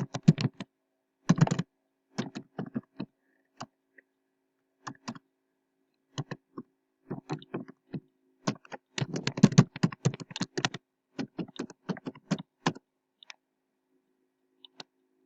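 Typing on a computer keyboard in irregular bursts of keystrokes, busiest a little past the middle and thinning out near the end. A faint steady hum lies underneath.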